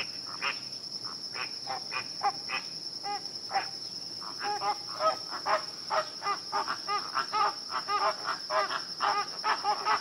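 A flock of flamingos calling, with many short honking calls overlapping that grow denser and louder about halfway through. A steady high-pitched insect drone runs underneath.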